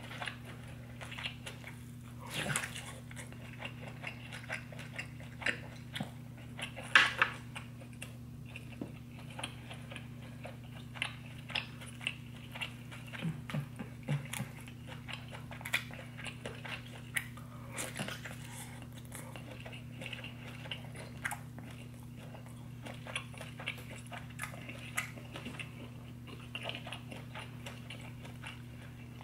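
Close-miked eating sounds: chewing, biting and wet mouth smacks while eating a buttery deshelled seafood boil. There are many short clicks and smacks, one louder bite about seven seconds in, over a steady low hum.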